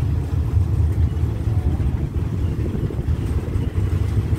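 Steady low rumble of a passenger train carriage running along the track, heard from an open window.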